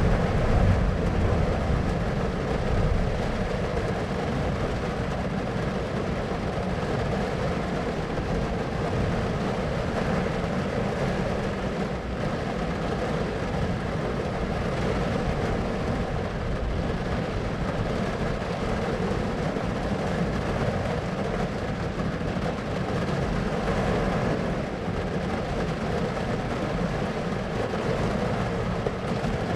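Steady rumbling noise with faint steady tones running through it and no sudden events.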